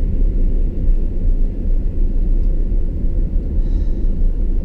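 Steady low rumble of engine and road noise inside a truck's cabin while driving.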